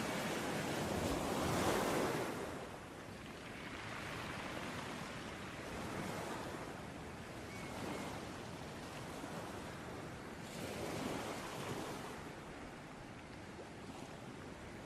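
Ocean waves washing onto a beach: a continuous surf hiss that swells with each wave, the biggest about two seconds in, then smaller ones every few seconds.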